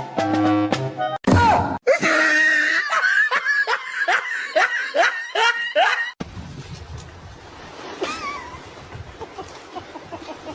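A short bit of music, then loud laughter in rapid, evenly repeated bursts for about four seconds, cut off suddenly. A quieter stretch of background noise follows.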